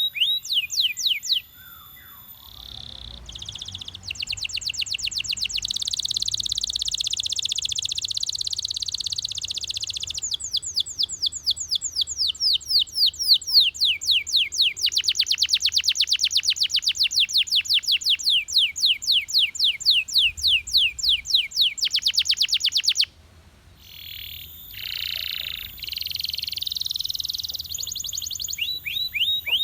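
Belgian canary singing long, rapid trills of quickly repeated falling notes, changing from one trill to the next, with a brief pause near the start and another about two-thirds of the way through.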